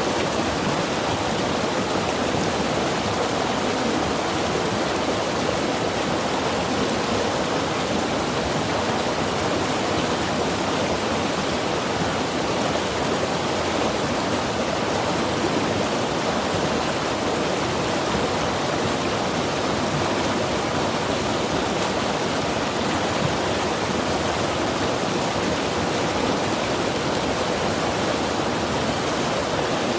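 Mountain river rushing steadily over rocks, a constant even roar of running water.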